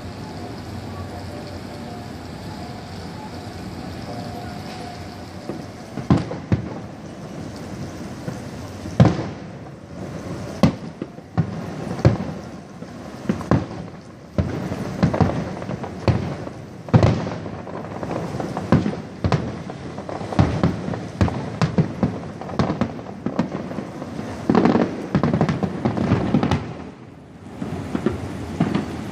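Fireworks display: after a few seconds of steady background noise, repeated booms and crackling bursts begin about six seconds in and keep coming until the end.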